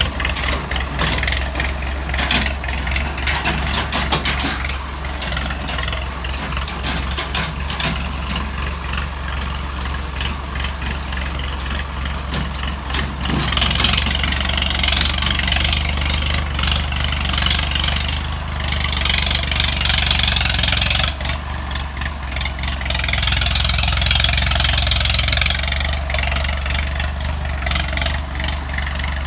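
Swaraj 855 FE tractor's three-cylinder diesel engine running steadily. A louder hiss rises over it for a long stretch in the middle and again later.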